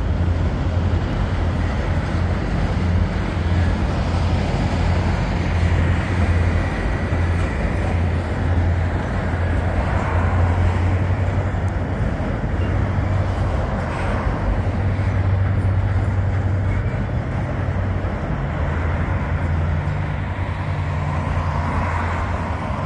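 Freight train of refrigerated boxcars rolling across a trestle bridge: a steady, loud rolling noise with a low hum, with road traffic passing beneath near the end.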